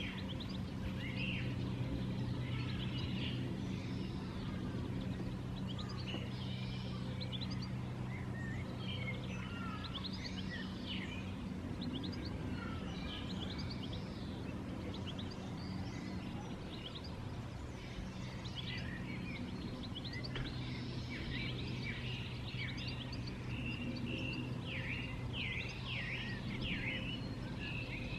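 Several songbirds chirping and singing on and off, over a steady low hum.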